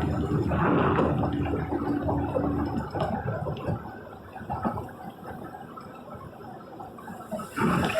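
Heavy rain and spray on a moving vehicle, a dense rushing noise that is louder for the first few seconds and then eases.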